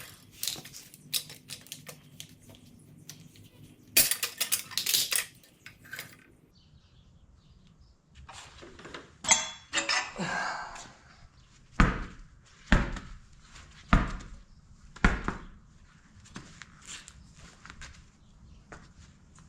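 Metal tools clinking and clanking against a dirt bike wheel rim during tire mounting, with some scraping, then four heavy thuds about a second apart.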